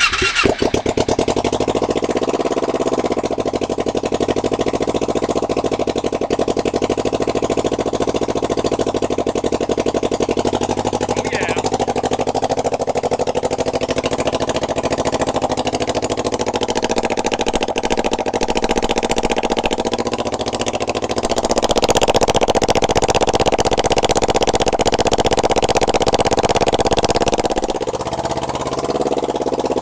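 Kawasaki Ninja 250's parallel-twin engine catching and running loud with no exhaust fitted, straight out of the bare exhaust ports, on part choke. Its speed rises about two-thirds of the way through and eases back near the end.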